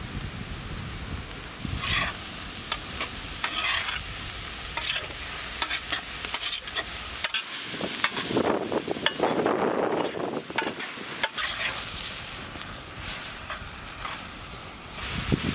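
Chopped onions and ginger-garlic paste sizzling on a large iron tawa while a metal spatula stirs and scrapes them against the iron. Sharp clicks run throughout, with a louder stretch of scraping about halfway through.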